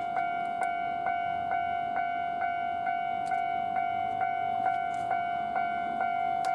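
Japanese railway level-crossing warning bell ringing: a steady pitched ring struck about twice a second, evenly and without pause.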